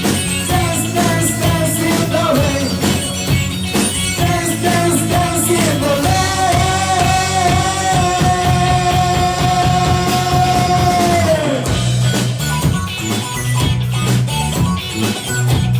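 Rock band playing with drums, bass and guitars, and a long held note that starts about six seconds in and falls away about five seconds later.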